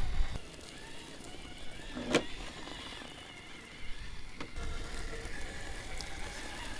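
Electric motor and drivetrain of a 1/10-scale RC crawler truck whining faintly as it crawls over rocks, with a couple of sharp knocks from the tyres or chassis striking stone.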